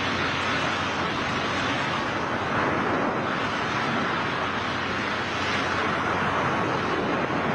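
Steady rushing of air over a microphone during a skydiving freefall, an even roar with no breaks.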